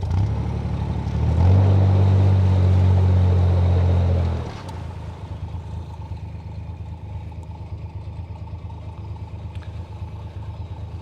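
Narrowboat's diesel engine opened up for a burst of power while the boat is turned in a winding hole. It runs louder for about three seconds, then eases back to a steady tickover.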